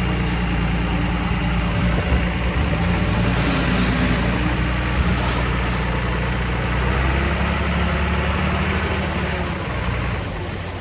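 Heavy diesel engine of earthmoving equipment running steadily, its low engine note wavering slightly as it works.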